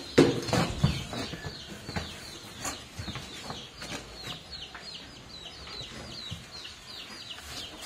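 Birds chirping: rapid, high, falling chirps, several a second, with a few sharp knocks in the first second.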